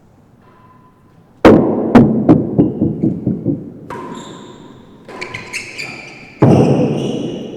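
Real tennis rally: loud, sharp knocks of the solid ball off racquets and the court's walls and floor, each with a short echo. Two big knocks about half a second apart are followed by a run of smaller bounces and high squeaks, then another loud knock near the end.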